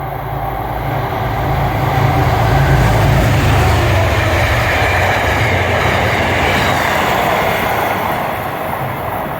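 A train passing close by, building up over the first few seconds, holding, then fading near the end.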